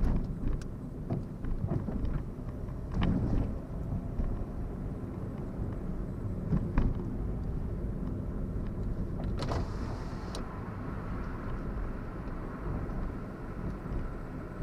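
Car driving along, heard from inside the cabin: a steady low engine and road rumble, with a few short knocks and clicks.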